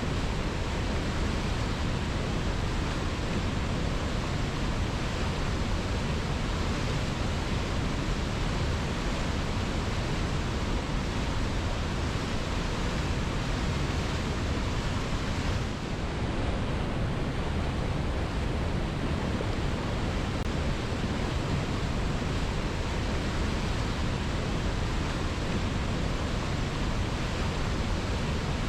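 Waterfall water rushing steadily onto rocks, a constant even roar, with a brief slight dip about halfway through.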